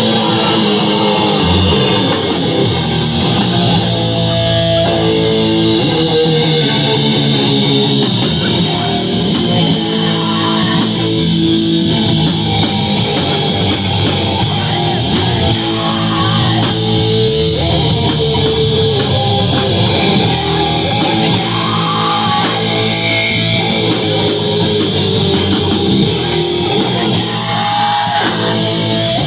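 A live heavy rock band playing: distorted electric guitar riffs with bass and drums, loud and continuous.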